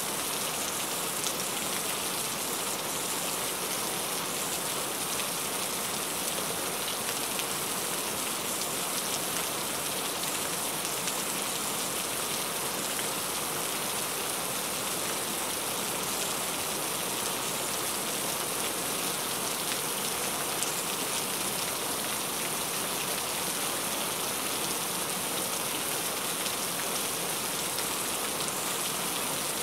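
Heavy rain falling steadily: an even, constant hiss with a few sharper drop hits now and then.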